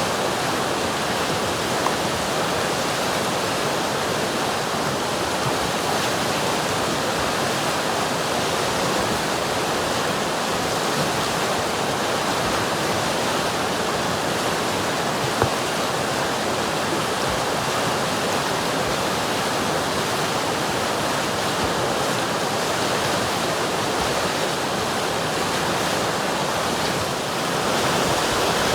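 River water rushing steadily over rocks, an even, continuous flow.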